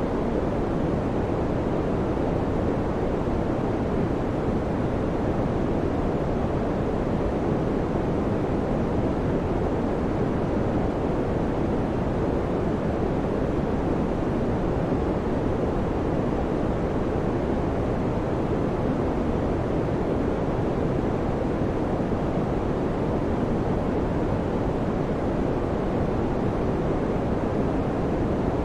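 Electric fan running steadily: an even, low rushing of air with no hum, rattle or change in level.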